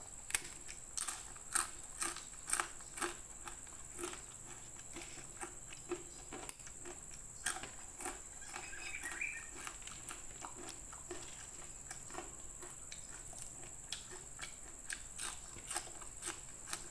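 Crispy rempeyek peanut crackers crunching as they are broken by hand and chewed close to a clip-on microphone: irregular sharp crunches, about two a second and loudest in the first few seconds, then softer and sparser chewing.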